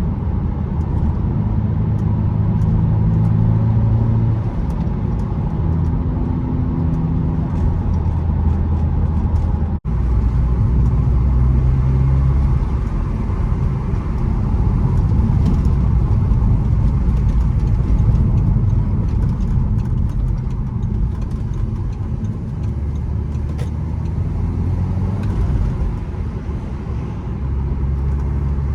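Audi S3 8P's turbocharged 2.0-litre four-cylinder engine running while the car is driven, its note rising and falling in pitch as the revs change. The sound briefly cuts out about ten seconds in.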